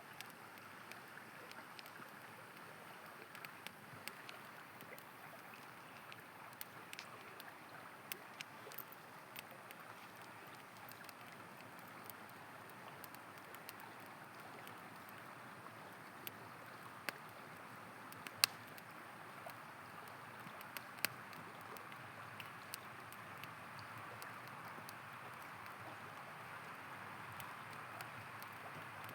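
A river flowing with a steady rushing hiss, with the sharp pops and crackles of a wood campfire scattered throughout, the loudest snap about eighteen seconds in.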